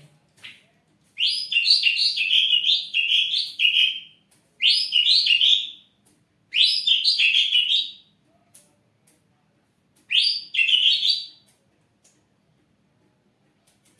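Ashy drongo singing in four phrases of quick, repeated notes. The first phrase runs about three seconds and the others about a second each, with short pauses between them.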